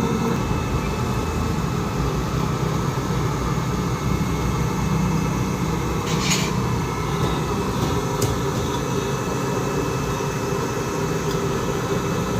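Steady low mechanical rumble, like a motor or fan running without pause, with a short hiss about six seconds in.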